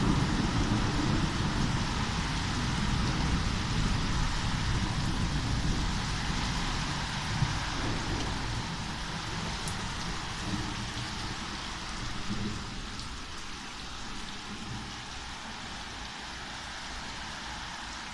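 Steady heavy rain falling, an even hiss throughout. A low rumble underneath is strongest in the first half and dies away over the second.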